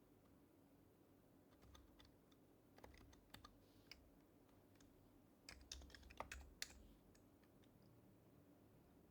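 Faint typing on an HHKB Professional HYBRID Type-S keyboard, its silenced Topre keys pressed in short irregular runs starting about a second and a half in, with a quicker flurry of keystrokes a little past the middle.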